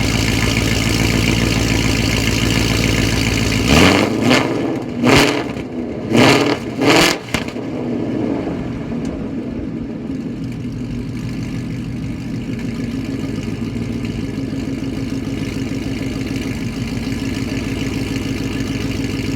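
Car engine through Corsa Extreme exhaust and BBK long-tube headers, idling cold, then revved in about five quick throttle blips between about four and seven seconds in, before settling back to a steady, slightly quieter idle.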